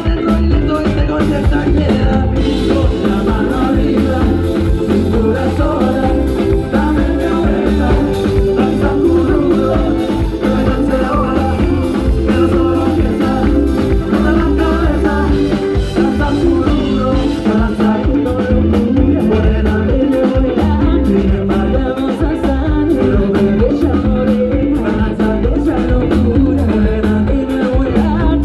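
Live band playing a Latin-style song with a singer, at a steady level throughout.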